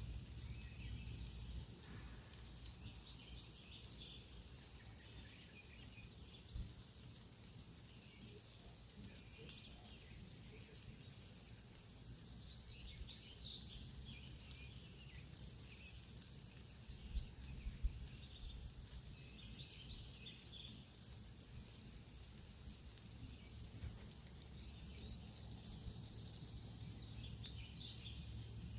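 Campfire crackling faintly, with a few sharp pops, over a low steady rumble. Birds chirp in short bursts in the background several times.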